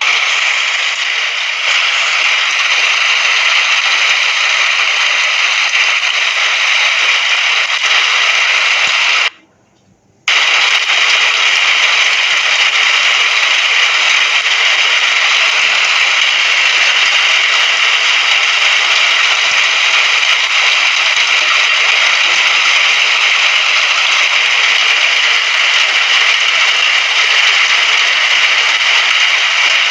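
Steady rain hiss, cut off abruptly for about a second roughly nine seconds in, then resuming unchanged.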